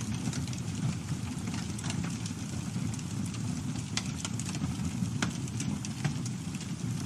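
Campfire burning with a steady low rumble, broken by scattered sharp crackles and pops from the burning wood, the loudest a few at a time about four and five seconds in.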